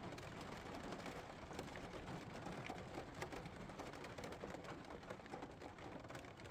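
Steady rain falling on a campervan's roof, heard from inside the van.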